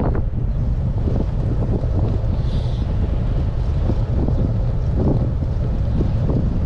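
Strong wind buffeting the microphone of a GoPro Hero 8 mounted on a moving road bike: a loud, steady low rumble with gusty flutter, which overwhelms the camera's sound.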